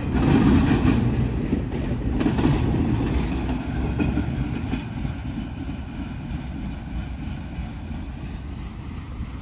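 CSX freight train rolling past, its wheels rumbling and clacking on the rails, the sound steadily fading as it moves away.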